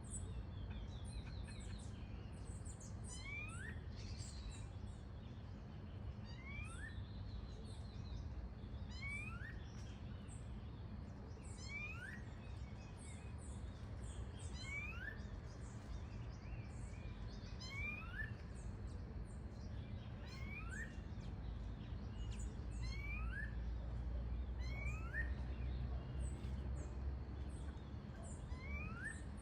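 Several wild birds singing. One bird gives a short rising whistled note again and again, about every one and a half to two seconds, over many quick high chirps from other birds. A low background rumble swells for a while near the end.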